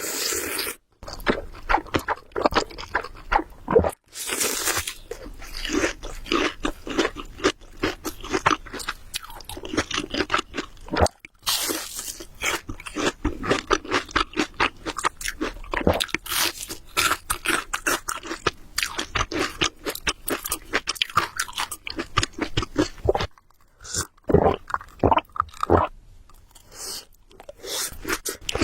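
Close-miked eating: a person biting and chewing food with loud, dense, irregular crunching, broken by a few short pauses.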